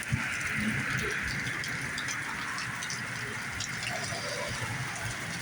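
Rain falling and storm water running, a steady hiss with scattered ticks of drops.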